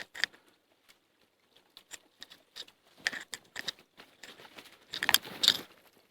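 Small twigs and birch bark being handled and broken: irregular snaps, crinkles and scratchy rustles, in two busier clusters about three and five seconds in.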